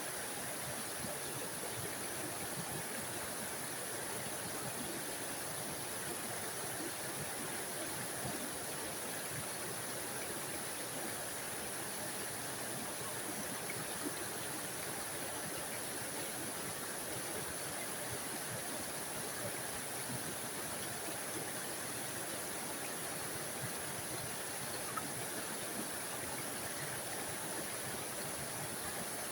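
A small forest waterfall: water falling and splashing over rocks in a steady, even rush.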